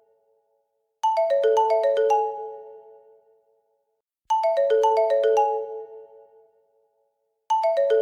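Marimba-style phone ringtone: a short phrase of quick, bell-like notes that rings out and repeats three times, about every three seconds.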